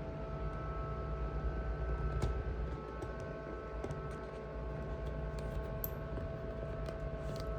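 Scattered light clicks and taps over a steady background hum made up of several held tones.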